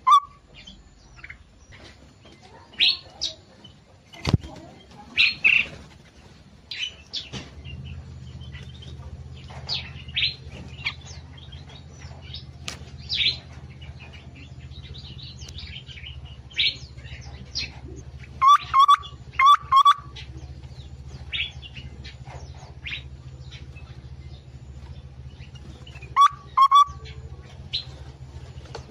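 Small aviary birds chirping and calling, with short scattered chirps throughout. Groups of louder, lower calls come about two-thirds of the way in and again near the end. A steady low hum sets in a few seconds in.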